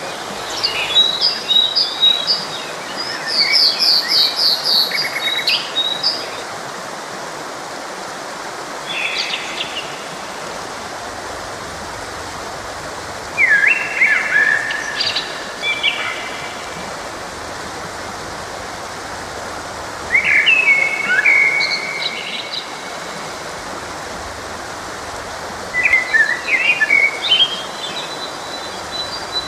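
Songbirds singing in short bursts of chirps and trills every few seconds over the steady rush of a flowing stream.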